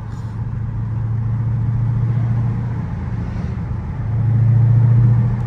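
Dodge Challenger Scat Pack's 392 Hemi V8 cruising at light throttle: a steady low exhaust drone at an even pitch, swelling louder about four seconds in and easing off near the end.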